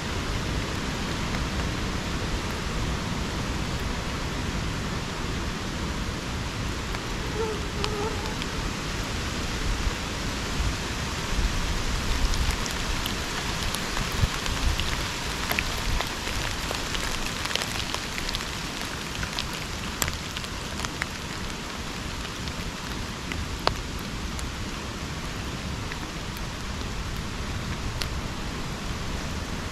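Steady rain falling in a subtropical rainforest. Individual drops land with sharp ticks, most of them in the middle of the clip.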